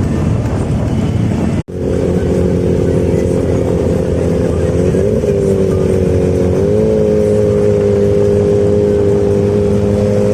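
Harley-Davidson Road King's V-twin engine running at a steady cruise with wind rush, cut off for an instant about a second and a half in. Afterwards the engine note holds steady and rises slightly in pitch twice.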